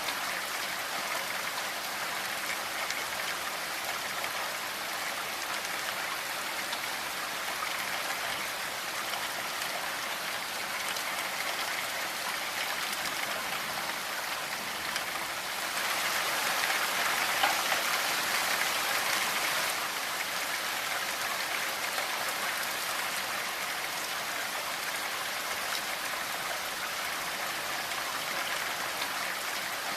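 Steady rainfall, an even patter and hiss, swelling louder for a few seconds about halfway through.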